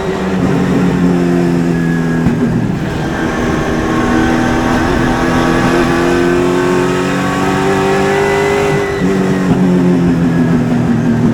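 Super late model race car's V8 engine heard from inside the car, running hard. Its pitch climbs and falls, dropping off sharply about two seconds in and again near the end.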